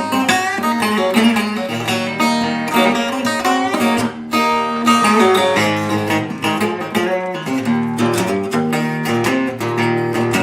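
Instrumental break of a blues/rockabilly song on acoustic guitar, a busy run of picked notes over the chords.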